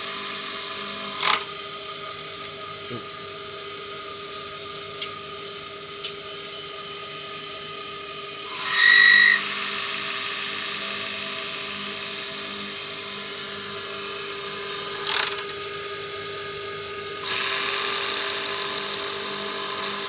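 Industrial sewing machine clutch motor running with a steady whir, broken by a few sharp clicks and a short, louder squeal about nine seconds in.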